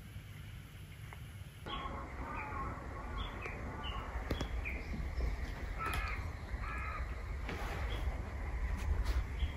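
A series of short bird calls, one after another for several seconds from about two seconds in, over a low steady rumble.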